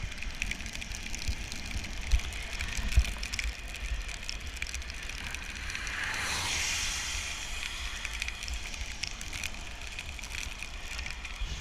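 Riding a bicycle in the rain: wind rumbling on the microphone and tyres hissing on the wet road, with scattered small ticks. A louder hiss swells about halfway through and fades over a second or two.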